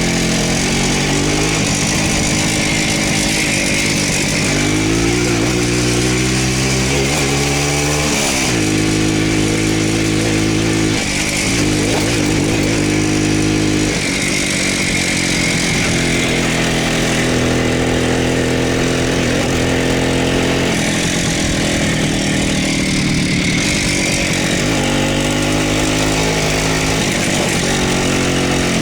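Voskhod motorcycle's single-cylinder two-stroke engine under way, its revs climbing through the gears and dropping at each shift.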